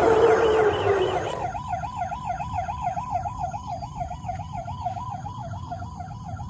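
Toy vehicle's electronic siren wailing, its pitch wavering rapidly up and down about four times a second. For the first second and a half a louder rushing sound, rising in pitch, plays over it and then stops.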